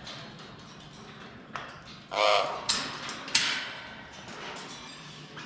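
Caged parrots: a short loud squawk about two seconds in and a harsh screech a second later, with sharp clicks and taps around them.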